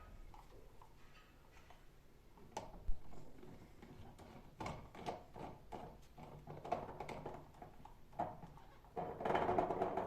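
Objects being handled: a string of light knocks and clicks with one louder knock about three seconds in, then a denser scraping or rustling noise in the last second.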